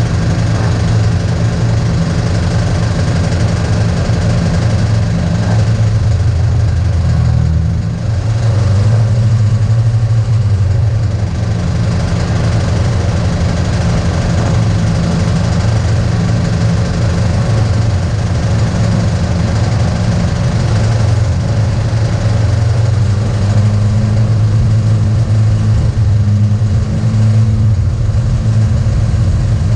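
The SU-carburetted four-cylinder A-series engine of a 1964 Mini Cooper S race car idling while stationary, heard from inside the stripped cabin. Its note shifts slightly about eight seconds in and again a little after twenty-two seconds.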